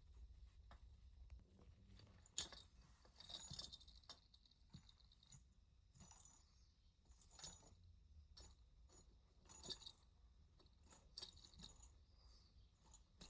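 Faint, sparse clicks and light clinks of small hard objects being handled, with one sharper click about two seconds in and a brief rustle just after it, over near silence.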